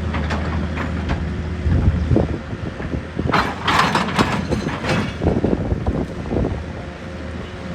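Heavy machine's engine running steadily, with a string of knocks and crunching from about two seconds in, loudest around four seconds.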